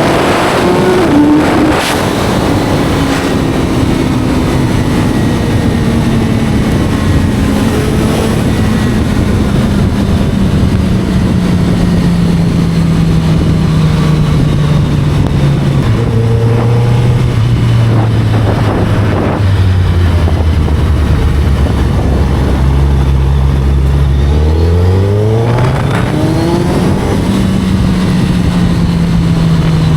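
Sport motorcycle's inline-four engine on the move. Its pitch sinks slowly for over twenty seconds as the bike rolls off and slows, stepping down a few times. About 25 seconds in it revs up sharply under acceleration, then eases back, over a constant rush of wind.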